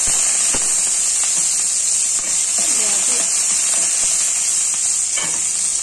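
Sliced garlic and ginger sizzling in hot oil in a nonstick wok: a loud, steady frying hiss, with a few light knocks of the spatula.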